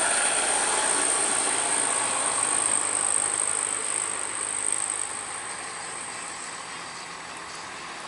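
A heavy truck on the road going away: a rushing noise with a steady high hiss, loudest at the start and fading over the first five seconds or so.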